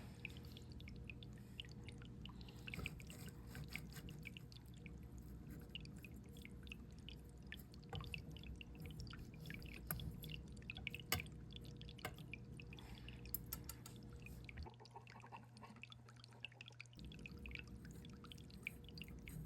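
Faint water dripping and trickling in many small scattered drops, over a steady low hum.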